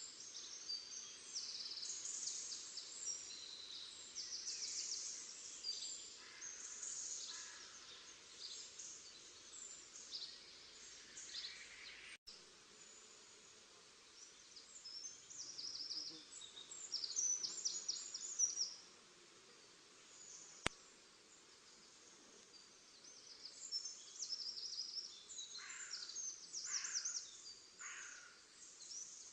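Several songbirds singing at once: quick high chirps and short trills, overlapping, with a quieter spell in the middle. The sound cuts out for an instant about twelve seconds in, and there is a single sharp click about two-thirds of the way through.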